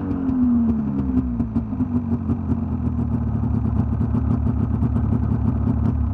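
1998 Yamaha VMAX 600 XTC snowmobile's two-stroke engine running soon after a cold start. Its pitch eases down a little in the first second, then it runs steadily.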